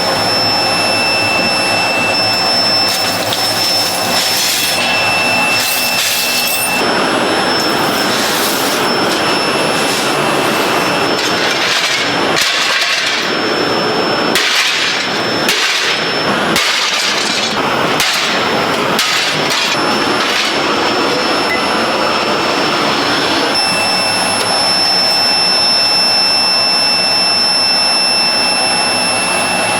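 A workshop power tool runs with a steady high whine, and between about 7 and 23 seconds in it is worked against material in a series of irregular, louder bursts of rasping noise.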